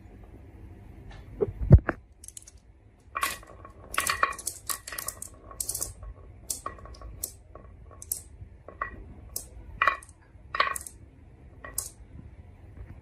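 Marbles clicking and clinking as they run down a marble run track and knock against toy trucks, in many irregular sharp clicks, several with a short ring. A heavy thump just under two seconds in is the loudest sound.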